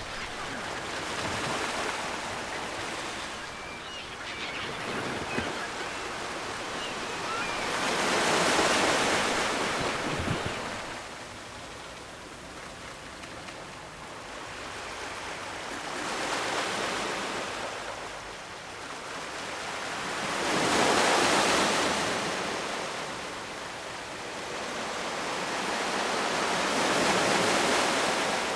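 Ocean waves breaking and washing in. The rush of surf swells and fades several times, each surge building and dying away over a few seconds.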